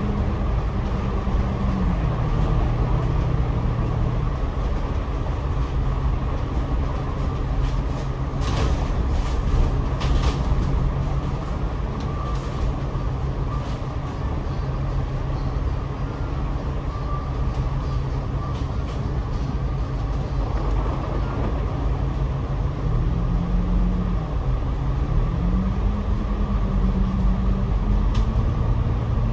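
Double-decker bus heard from the upper deck: its diesel engine note drops in the first few seconds as the bus slows, then climbs again near the end as it accelerates, over a steady rumble of road and tyre noise, with a few brief clicks about a third of the way in.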